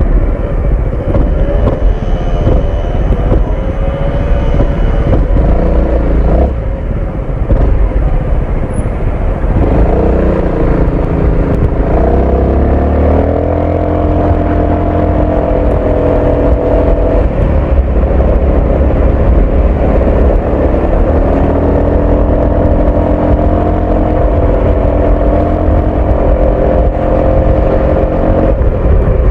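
Honda ADV 350 scooter's single-cylinder engine and exhaust running on the road. The engine note drops off about a third of the way in, climbs as the scooter pulls away, then holds a fairly steady pitch with slight dips while cruising.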